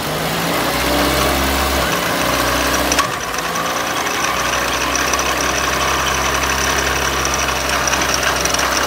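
Toyota Altis on the move at about 60 km/h, with a steady low drone and vibration and a faint rising whine: the abnormal noise the shop puts down to a faulty drive shaft, which also makes the car shake. A single sharp click comes about three seconds in.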